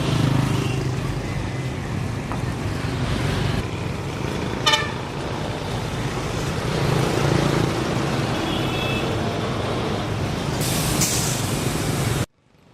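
Road traffic with truck and bus engines running, and a short horn honk about a third of the way in, a fainter horn later, and a brief hiss near the end. The sound cuts off abruptly just before the end.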